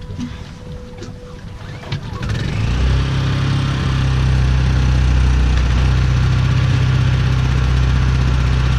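Honda 2000 portable generator's small single-cylinder four-stroke engine starting for its first time ever, cold: about two seconds in it catches and quickly comes up to a loud, steady run.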